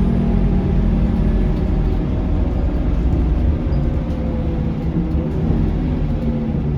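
Scania K230UB bus's five-cylinder diesel engine running, heard from inside the passenger cabin with steady road rumble; the engine note falls gradually over the second half.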